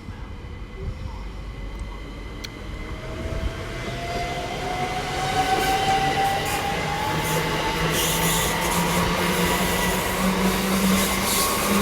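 Class 387 Electrostar electric multiple unit accelerating away from a standstill. Its traction motors give a whine that rises steadily in pitch and grows louder as it picks up speed, over the rumble of wheels on the rails.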